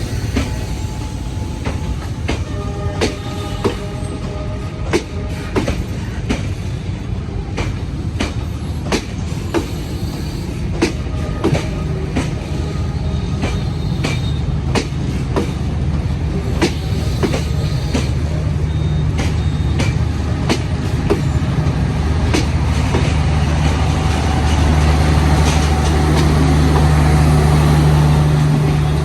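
Passenger train rolling slowly into a station, its wheels clicking over rail joints, with a few faint held squeals early on. From about halfway a low steady engine drone builds and is loudest near the end.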